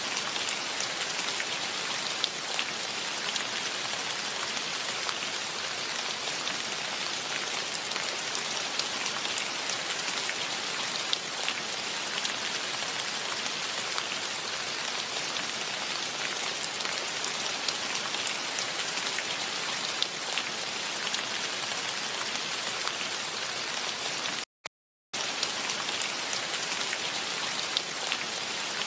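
Steady rain falling, an even hiss with scattered individual drops ticking. Near the end the sound cuts out completely for about half a second, then resumes.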